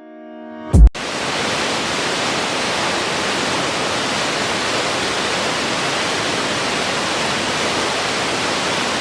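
A held synthesizer chord swells and ends in a loud low thud about a second in. Then comes the steady, even rush of a waterfall.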